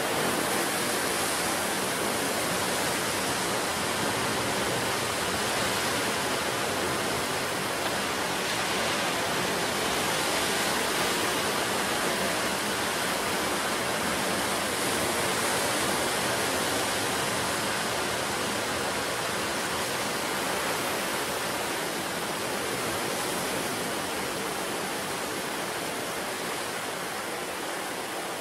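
Ocean surf on the shore: a continuous wash of breaking waves that swells gently and eases a little toward the end.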